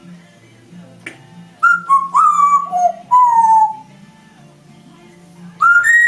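African grey parrot whistling a quick run of four or five clear notes that glide and step downward, then one short rising whistle near the end.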